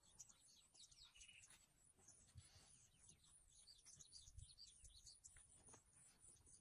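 Near silence, with faint, short high chirps of birds in the bush and a few soft low thumps.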